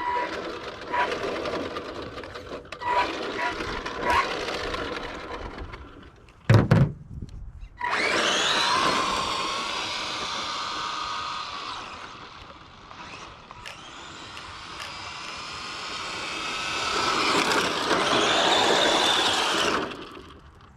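Arrma RC truck's electric motor and drivetrain whining through a speed run, the pitch climbing and falling as it accelerates. It fades as the truck runs off, grows louder again as it comes back, and cuts off suddenly near the end. A few short beeps and one sharp thump come before the run.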